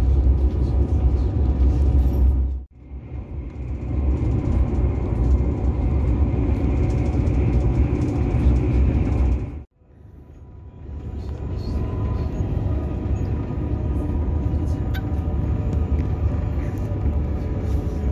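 Steady running rumble of a passenger train heard from inside the carriage, deepest in the low end. It cuts out abruptly twice, about three seconds in and about ten seconds in, and each time builds back up over a second or so.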